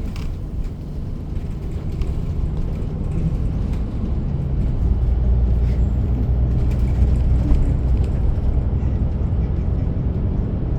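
Bus interior: the bus's drivetrain running with a steady low hum over road noise. The hum grows louder about four seconds in.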